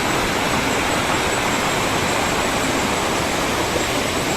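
Fast-flowing river water gushing steadily over rocks.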